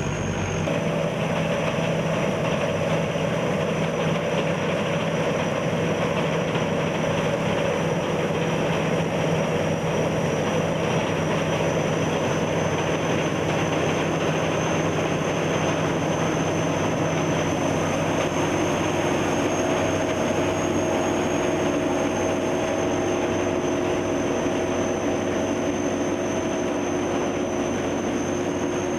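Rice combine harvester running steadily: a continuous machine drone with a thin, high steady whine on top. A low hum drops away just after the start.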